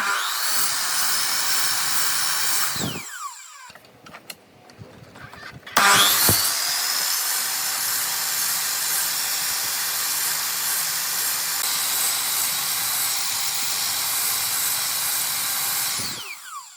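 Electric power tool motor spinning up with a rising whine, running for about three seconds and winding down. After a short pause it starts again about six seconds in, runs steadily and winds down near the end.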